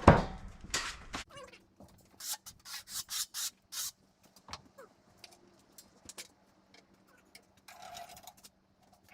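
A loud rushing noise cuts off about a second in. Then come about six quick rubbing strokes on wood in a row, with fainter scrapes and a faint steady hum after them.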